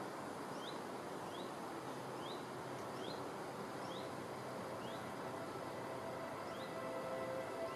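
A small bird repeating a short rising chirp about once a second over a steady outdoor hiss; the chirps stop shortly before the end.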